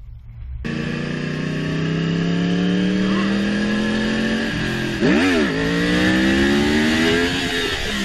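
A motorcycle engine accelerating. Its pitch climbs steadily, rises and falls sharply about five seconds in, climbs again, then drops near the end.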